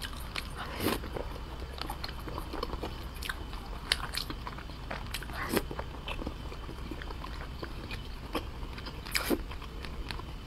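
Close-miked chewing of soft, fatty braised pork belly: irregular wet mouth clicks and smacks, a few louder ones scattered through.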